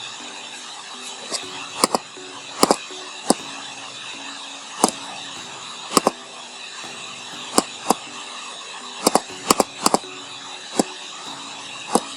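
Sharp computer mouse clicks, loud and at irregular intervals, often in quick pairs, while painting digitally. Underneath runs a steady hiss from the recording.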